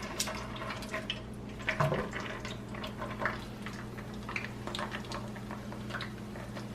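Cooking oil in a frying pan crackling, with scattered small pops and spits, over a steady low hum.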